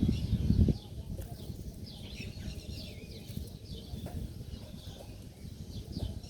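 Several small birds chirping, with many short, quick, falling chirps overlapping one another. A louder low rumble sits under them for the first second or so.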